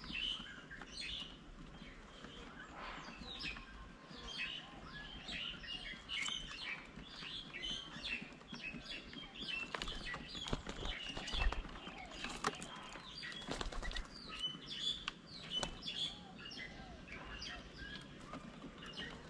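Several small birds chirping and calling in quick, overlapping notes around a garden bird table, with a few sharp knocks near the middle.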